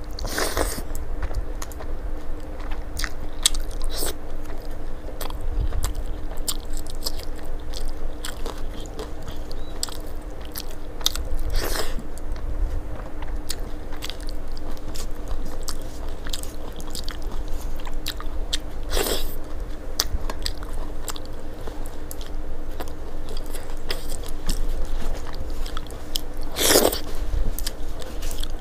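Close-miked chewing, biting and wet mouth clicks of a person eating rice and vegetable curries by hand, with a few louder moments scattered through. A faint steady hum runs underneath.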